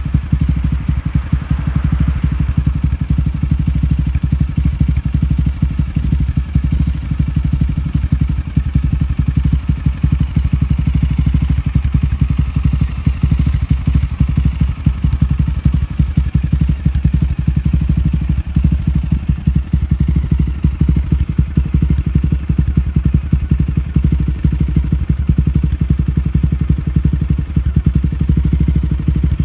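Honda GB250 Clubman's air-cooled single-cylinder engine running steadily through its muffler, a fast, even exhaust beat that holds the same pace throughout.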